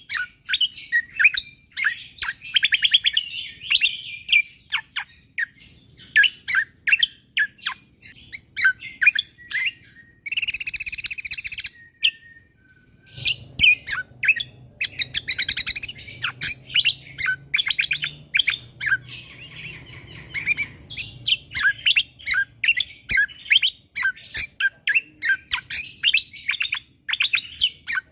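A cucak kombo (kecial kombo) songbird singing in rapid-fire bursts of short, sharp chirping notes. About ten seconds in comes a dense buzzy trill lasting roughly two seconds, then a brief pause before the quick chirps resume.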